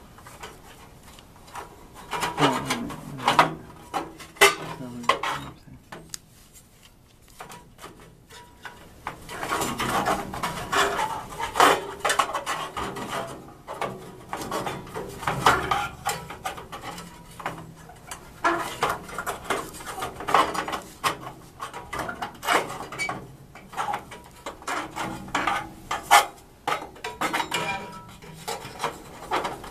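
Metal parts being handled: repeated clattering, knocking and rattling, with a few scrapes.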